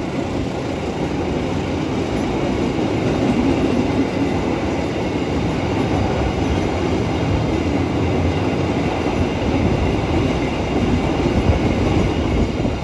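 Train of flat wagons loaded with concrete sleepers rolling past close by: a loud, steady rumble of wheels on the rails.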